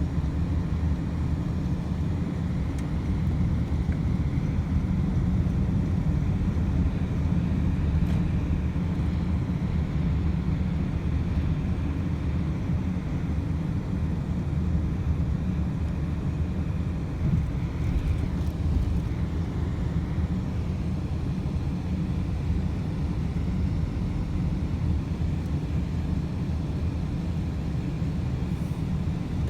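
Steady low rumble of a car driving at speed, heard from inside the cabin: engine and road noise without change.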